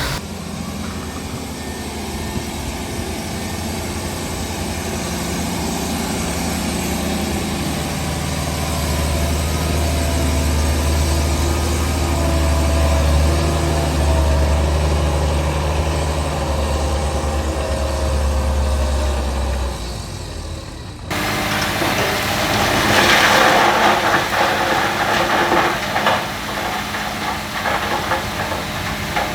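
Heavy diesel engine of earthmoving machinery running with a steady low drone. About twenty seconds in, the sound cuts abruptly to a louder, harsher noise with many short rattling knocks.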